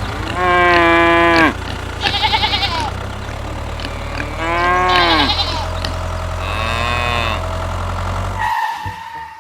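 Farm animals bleating: four separate calls in turn, each about a second long, over a steady low engine hum that cuts out near the end.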